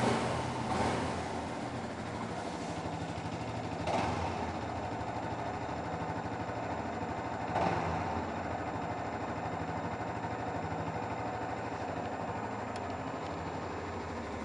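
2008 Yamaha YZF-R125's 125 cc single-cylinder four-stroke engine idling through its stock exhaust, blipped briefly four times: twice right at the start, once about four seconds in and once about seven and a half seconds in. It then idles steadily.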